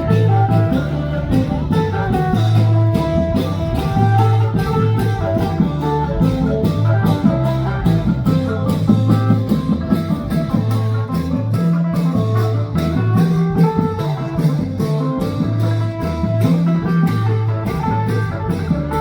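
Lively band music: a plucked-string melody over a bass line and a steady drum beat.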